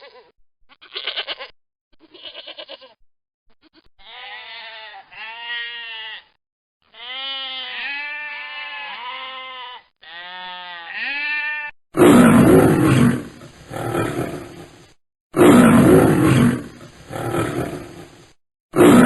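A goat bleats in short calls, then a different animal gives a run of pitched calls that rise and fall. From about two-thirds of the way through, a big cat roars loudly, about three long roars.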